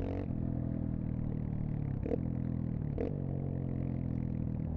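Dirt bike engine running steadily under way, with two brief sharp sounds and small shifts in engine pitch about two and three seconds in.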